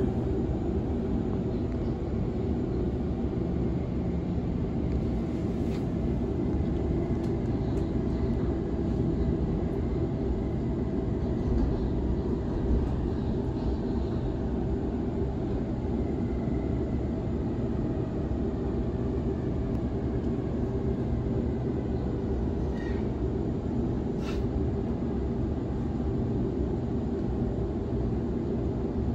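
Steady low rumble of a Sydney Trains B-set (Waratah Series 2) electric train running along the line, heard from on board, with faint tones sliding slowly down in pitch midway and a couple of light clicks.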